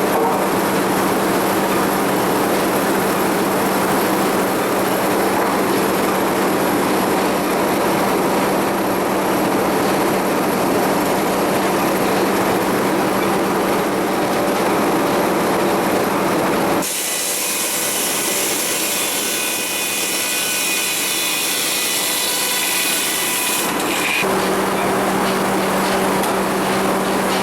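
Sawmill machinery running steadily with a constant low hum. A little past the middle the hum drops out for several seconds and a higher, hissing whine takes over, then the hum returns near the end.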